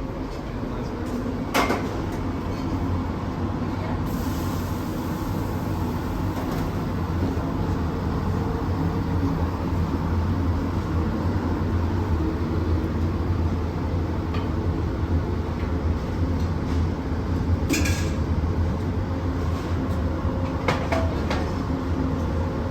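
Steady low machinery hum of a cruise ship's buffet dining area, with three brief sharp clinks or knocks spread through it.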